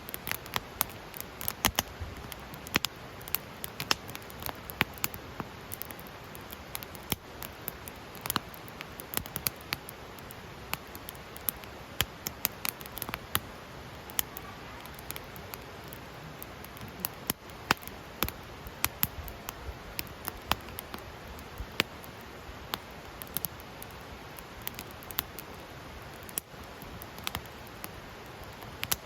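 Wood fire crackling in a fire pit: irregular sharp pops and snaps, several a second, over a steady low hiss.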